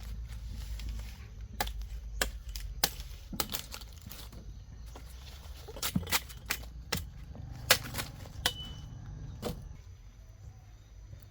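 Irregular sharp cracks and knocks, about a dozen spread over several seconds, with a brief high tone about eight and a half seconds in.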